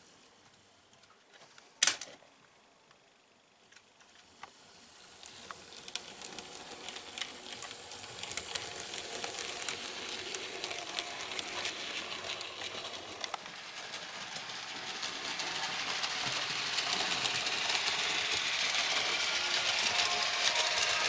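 00 gauge model train running over handbuilt track: motor whirr and rapid wheel clicks over the rail joints, growing steadily louder as it approaches. A single sharp click comes about two seconds in.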